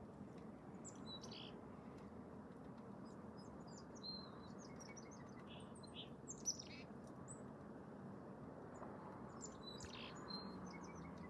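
Small birds chirping in short, high, scattered calls over a faint steady background hiss, with one brief sharp tick about six and a half seconds in.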